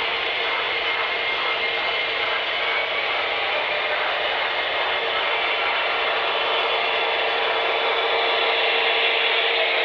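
HO-scale model train running on the layout: a steady motor whir with wheel noise on the rails, getting slightly louder towards the end.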